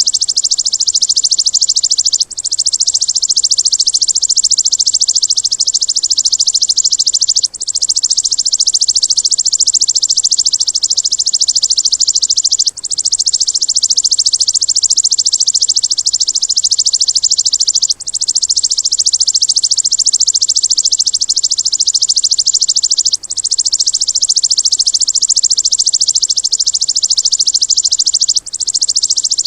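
A looped songbird-training recording of a high-pitched, very rapid 'tembakan' trill, a dense machine-gun-like rattle. It runs in stretches of about five seconds, each broken by a brief gap before the loop restarts.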